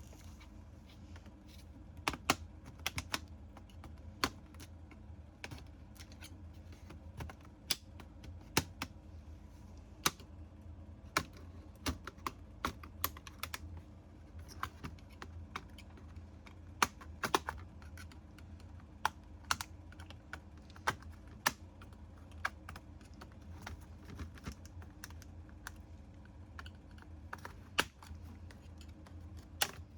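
Keys clicking irregularly as someone types on a computer keyboard, one to a few strokes a second, over a steady low hum.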